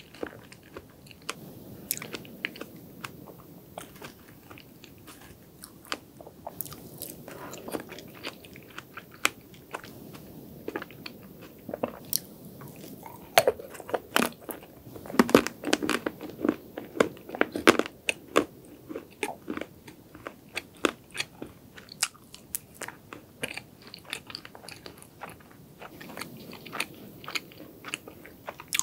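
Close-miked chewing and crunching of chocolate cake: crisp crunches and wet mouth clicks, densest and loudest about halfway through.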